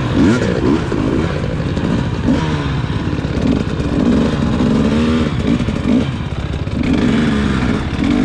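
Dirt bike engine revving up and dropping back about every second as the throttle is worked on and off.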